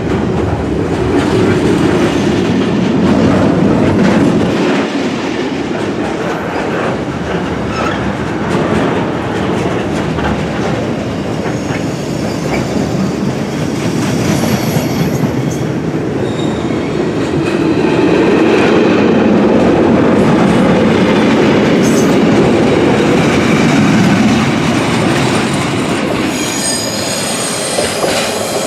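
A train running past on the track: a continuous rumble of wheels on rail, with a high-pitched wheel squeal about halfway through and again near the end.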